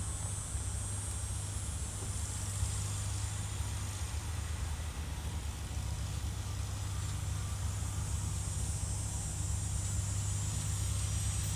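Diesel locomotive engine running with a steady low rumble, growing a little louder near the end.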